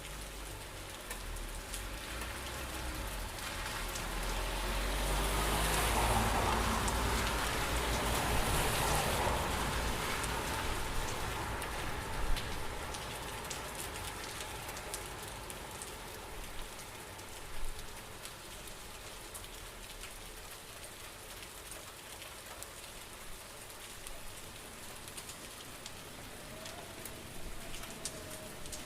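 Steady rain falling and pattering on surfaces, with many small drops ticking. It swells louder for several seconds early on with a low rush of wind, then settles back, with a couple of sharper single drips later.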